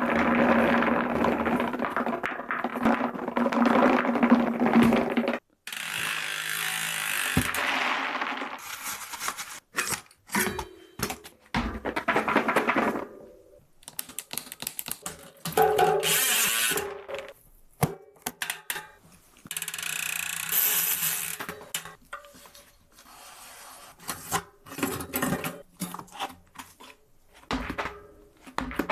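A series of different mechanical noises from bicycle wheels, each a few seconds long and cut abruptly one after another: grinding, rubbing and rattling, the first with a steady low hum under it. These are the strange noises of the wheels whose cause is in question.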